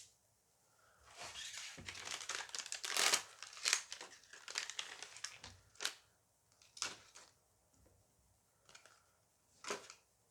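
A foil booster pack being torn open and crinkled in the hands for a few seconds, followed by a few separate sharp clicks of handling.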